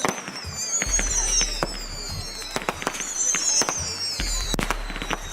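Fireworks display: sharp bangs and crackles, overlaid with high whistles that each fall in pitch over a second or two, one after another about every two seconds.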